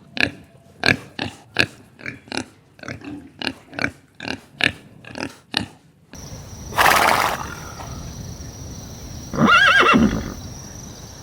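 Farm animal calls: a quick run of short repeated calls, about two a second, then after a cut a loud noisy burst and one longer call that rises and falls in pitch.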